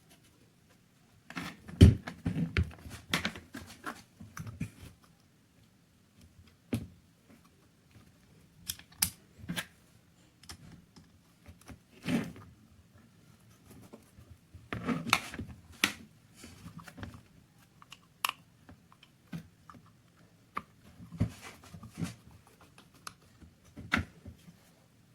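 Irregular clicks, taps and short scrapes of small metal pistol parts being handled and fitted, with brief pauses between them. The loudest knock comes about two seconds in.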